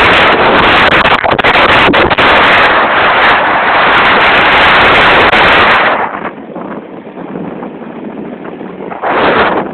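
Heavy wind buffeting the microphone during a ride, loud and crackling for about six seconds, then dropping away, with one short loud gust near the end.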